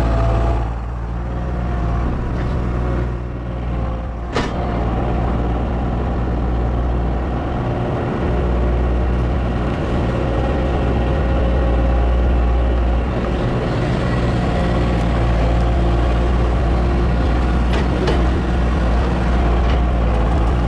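A large engine running steadily, with a single sharp knock about four seconds in.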